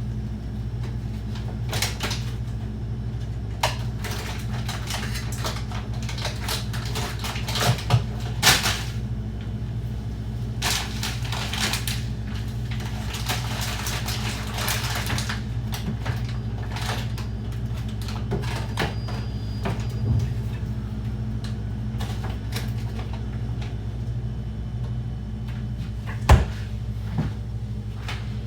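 Kitchen handling sounds during breakfast-making: scattered knocks and clicks of things being set down or cupboards and drawers being worked, with a couple of longer stretches of rustling or scraping around the middle and a sharp knock near the end. A steady low hum sits under it all.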